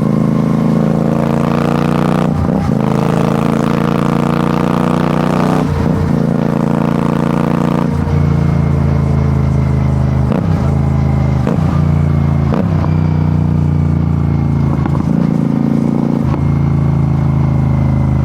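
Royal Enfield Shotgun 650's parallel-twin engine under way, the exhaust note climbing as the bike accelerates. It is cut by a series of gear changes, about eight short breaks spread through the run, with a gently falling note in the later part.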